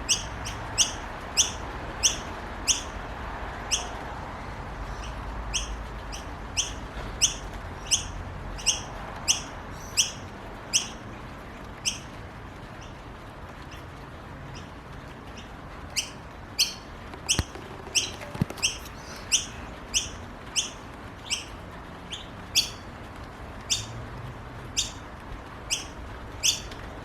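Noisy miner chicks begging for food: a run of short, high chirps repeated about twice a second, with a lull of a few seconds midway before the calls start up again.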